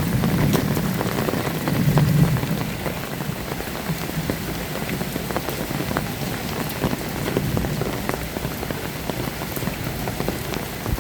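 Heavy rain falling steadily, with many close drops ticking sharply on surfaces. A low rumble underlies the first couple of seconds, then eases.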